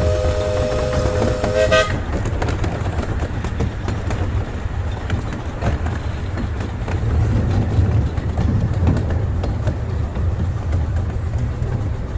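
A miniature steam locomotive's chime whistle sounding a steady chord that cuts off about two seconds in, followed by the steady low rumble of the train running, with light clicking from the wheels on the track.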